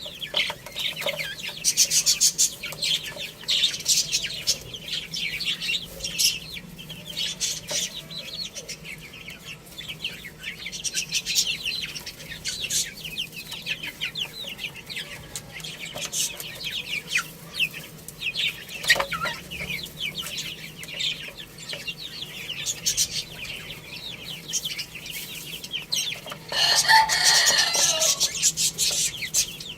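Poultry clucking over a dense chatter of high chirps. Near the end a rooster crows once, loudly, for about two seconds.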